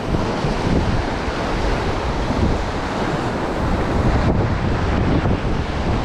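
Whitewater river rushing steadily around a paddle raft, with wind buffeting the microphone.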